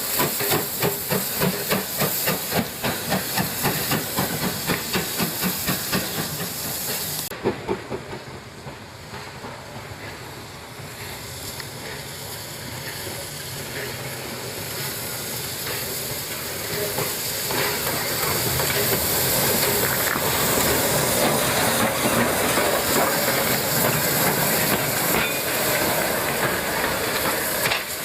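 Steam locomotive working, its exhaust chuffing in a quick, even rhythm. About a quarter of the way in the sound changes abruptly to a steady hiss of steam and train noise that grows louder toward the end.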